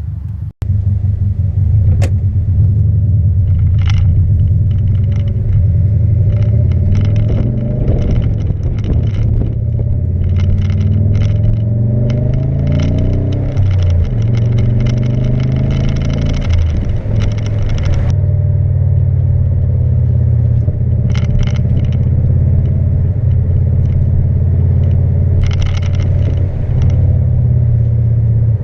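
Subaru's turbocharged flat-four engine running through an exhaust that is basically a straight pipe, its muffler blown apart, giving a loud, low drone while driving. The engine pitch climbs and falls several times in the middle, as it accelerates and shifts, then settles back to a steady drone.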